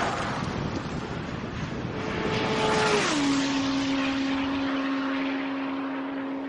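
A high-speed vehicle's engine passing by. Its steady note drops sharply in pitch as it goes past, about three seconds in, then holds lower as it moves away.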